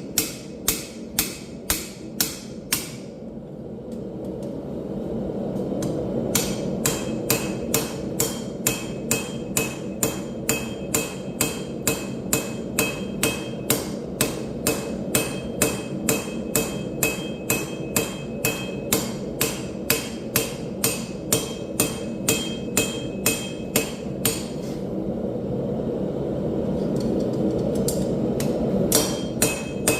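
Hand hammer blows on hot steel at an anvil, evenly paced at about two and a half strikes a second with a light metallic ring. They come in three runs: a short one at the start, a long one from about six seconds in to about twenty-four, and another near the end. A steady low rushing noise sits under the hammering throughout.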